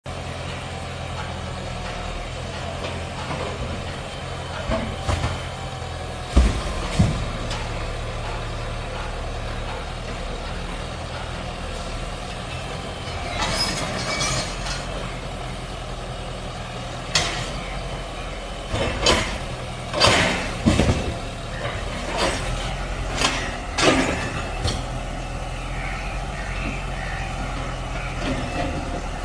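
Heavy diesel machinery running steadily, with a series of sharp metallic knocks and clanks scattered through the middle, some in quick pairs, and a short spell of scraping.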